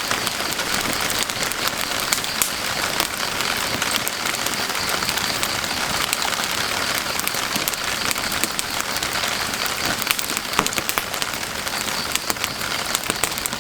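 Steady rain falling on a surface, with the sharp snaps and crackles of burning firewood scattered through it, more of them near the end.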